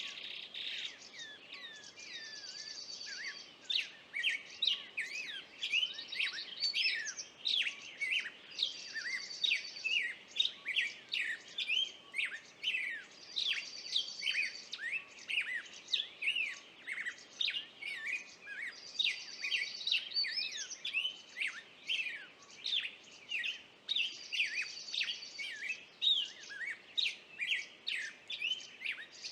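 Songbirds chirping and singing: a steady stream of quick chirps and whistled notes, with a high buzzy trill repeated about every five or six seconds.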